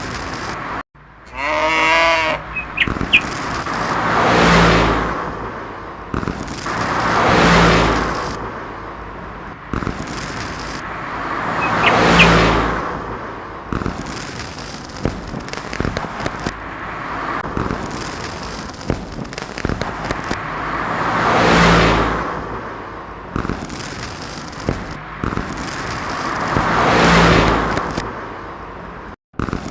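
Road vehicles passing one after another, each a whoosh that swells and fades over a couple of seconds, five times over. Near the start there is a brief wavering pitched call.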